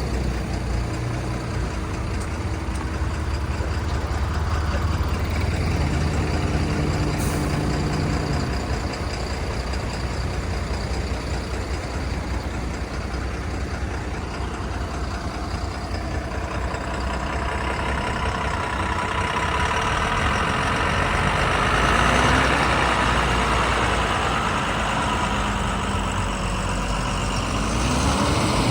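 Heavy diesel engines of earth-moving machinery running, with the revs rising and falling a few times; louder in the second half.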